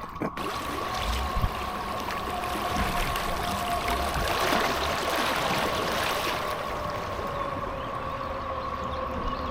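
Cicadas droning in one steady high whine, over rushing river water.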